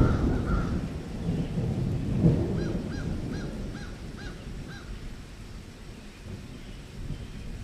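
A bird calling six times in quick succession, short hooked notes about two a second, over a low rumbling noise that fades during the first second or two.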